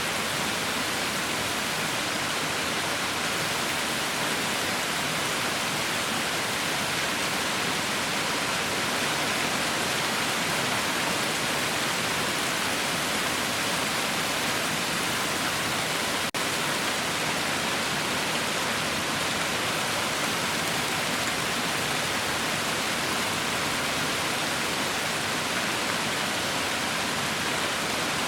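Heavy rain falling steadily: a constant, even hiss with no thunder or single drops standing out.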